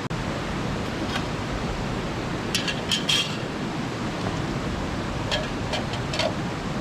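Steady rushing of a mountain stream, with a few light clinks, a cluster of three about two and a half to three seconds in and three more near the end.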